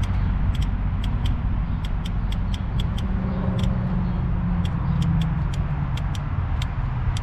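Toro Z587L zero-turn mower's engine running steadily while a relay clicks sharply and irregularly, two to four times a second, a swapped relay being tested because the cooling fan will not run.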